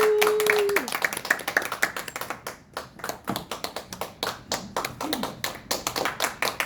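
A small audience clapping, with the separate claps distinct and irregular. A held tone sounds at the start and drops away under a second in.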